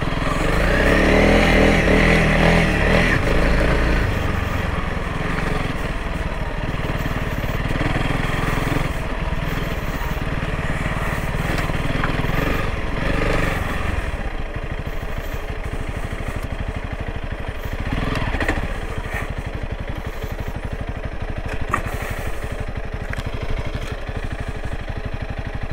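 Honda CRF300L Rally's single-cylinder four-stroke engine running as the bike is ridden. It is loudest and busiest for the first few seconds, then runs steadier and a little lower from about halfway.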